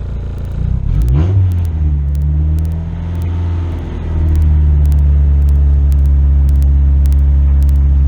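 Turbocharged Honda F22B 2.2-litre four-cylinder engine running after a cylinder head rebuild, with a short rise in revs about a second in, then running louder and steady from about halfway. It idles consistently, with vacuum around 20, running as it did when tuned.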